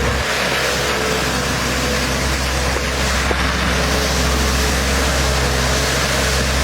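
Loud, steady rushing of wind, with a low steady hum underneath.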